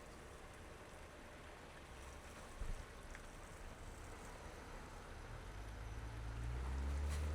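Car driving on wet, snowy city streets: steady tyre and road noise, with a brief thump about two and a half seconds in and a low rumble that grows louder near the end.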